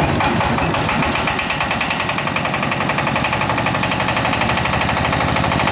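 Small engine of a freshly repaired motorised pesticide sprayer running steadily on a test run, with a fast, even firing beat.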